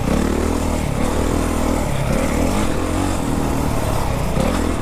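Four-stroke Honda CRF motocross bike engine running under throttle, its pitch rising and falling as it is ridden, rising again near the end.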